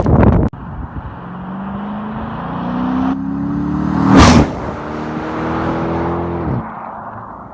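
A car accelerating past, its engine note rising steadily and loudest about four seconds in; the engine note drops away suddenly near the end. A loud rush of noise cuts off half a second in.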